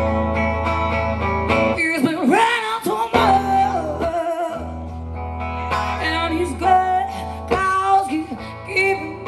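Live acoustic guitar playing a slow blues-country intro, with a woman's voice singing two wavering melodic phrases over it.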